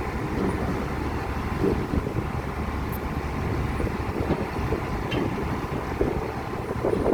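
Heavy machinery of a pile-driving rig running with a steady low rumble, with a few faint, irregular knocks.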